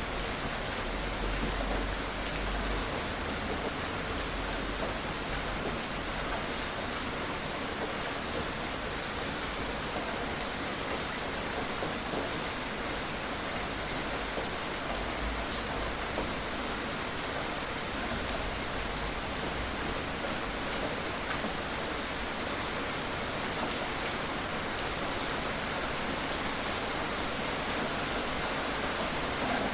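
Steady gentle rain falling on surfaces, an even hiss with scattered individual drops ticking, no thunder.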